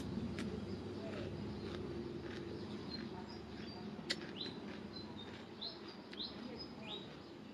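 Small birds chirping: short, high, falling chirps come several times in the second half, with a sharp click about four seconds in.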